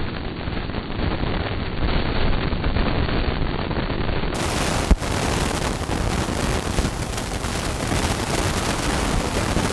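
Wind buffeting and rain noise on an action camera's microphone while riding on a highway in heavy rain: a rough, crackling, steady noise. The sound turns brighter about four seconds in, and there is one sharp click about five seconds in.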